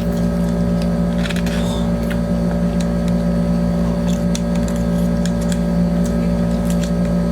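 Steady low machine hum, with faint scattered clicks.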